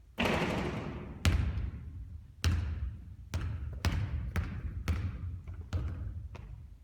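A basketball bouncing on a court floor, about ten bounces at uneven gaps. The first bounce, just after the start, is the loudest and rings on longest.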